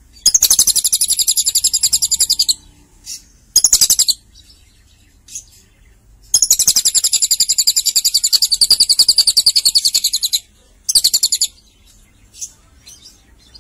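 Lovebird singing very rapid, high-pitched trills in the style of a cililin's song: one run of about two seconds, a short burst, then a longer run of about four seconds, with brief chirps in between.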